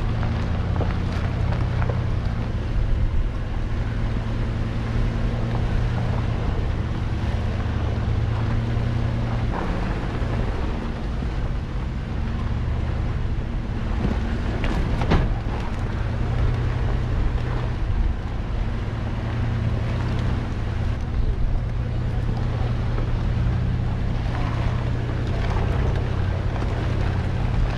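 4x4 truck's engine and drivetrain running in a steady low drone while driving on a dirt trail, with a few sharp knocks and rattles along the way.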